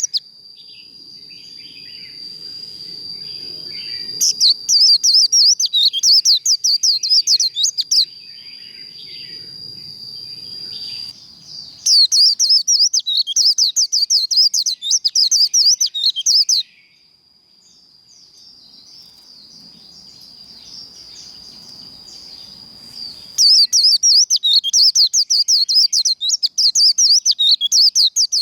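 A white-eye singing a long, thin, steady high whistle that slowly swells, broken three times by bursts of very fast, high-pitched twittering trills (the 'líu' song).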